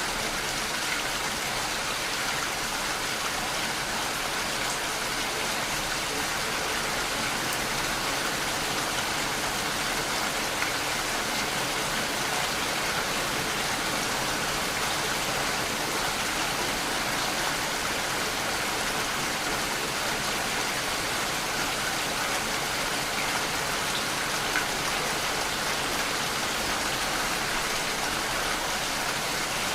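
Steady rain falling on a surface, an even hiss with a few louder drops ticking now and then.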